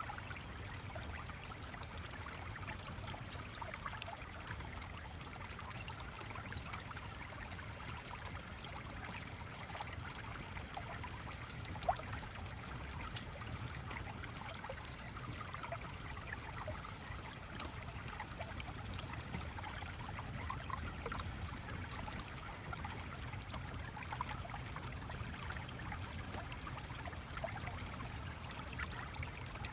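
Steady flowing stream water with scattered small ticks and crackles, and one sharper click about twelve seconds in.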